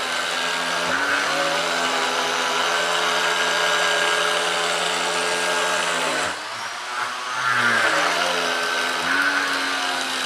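High-pressure washer running steadily while flushing an air conditioner's drain line to push out gunk and slime. Its pitch sags and recovers about a second in, and again in the second half after a short drop in level around six seconds.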